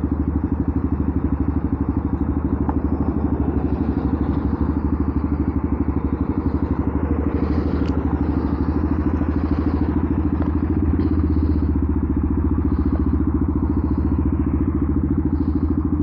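Benelli TNT 125's single-cylinder engine popping through a loud aftermarket exhaust, running steadily while the bike is ridden.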